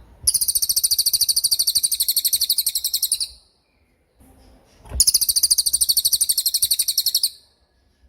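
Cililin songbird singing its 'tembakan' song: two long, very fast, high-pitched trills, the first about three seconds long, the second starting about five seconds in and lasting over two seconds.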